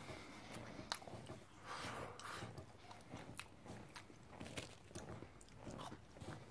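A person chewing a mouthful of crispy fried popcorn chicken: quiet, irregular crunches and wet mouth sounds.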